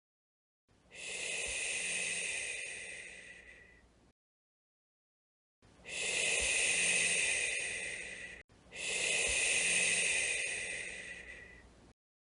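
A woman shushing softly to soothe a crying baby: three long, breathy "shh" sounds, each starting abruptly and fading out.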